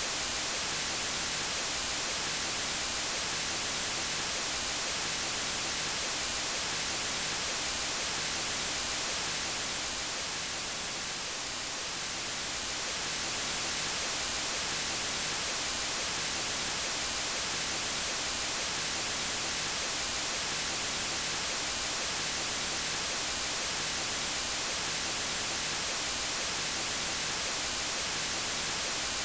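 Steady white noise: an even hiss across all pitches, strongest in the treble. It dips slightly in level for a couple of seconds near the middle.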